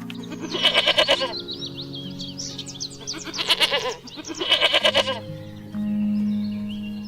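Goat bleating three times, each call quavering, over steady background music.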